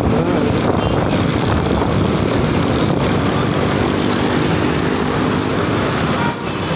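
Motorcycle engine running steadily under way, mixed with wind and road noise. A short high-pitched tone sounds near the end.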